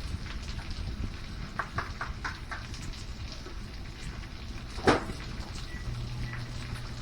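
Leftover potatoes and onions sizzling and crackling steadily as they fry in a pan, with a few brief utensil scrapes about two seconds in and a single sharp knock about five seconds in.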